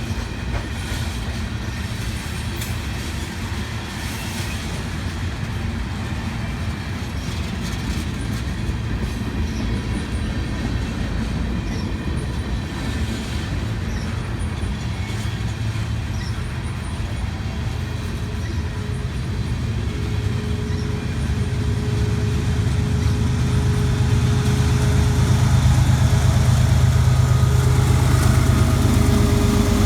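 Freight train rolling past, its cars rumbling and clattering steadily over the rails. About two-thirds of the way through, a steady engine hum comes in and grows louder toward the end.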